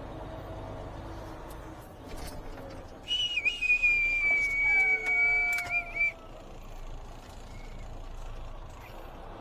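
A semi-truck's engine idles with a steady low rumble. About three seconds in, a loud, high whistling squeal cuts in for about three seconds, several tones sliding slightly downward together.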